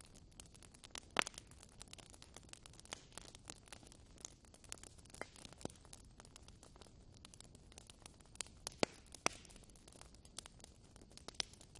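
Wood fire in a fireplace crackling: a stream of small irregular snaps over a soft hiss, with a few louder pops, one about a second in and several near the end.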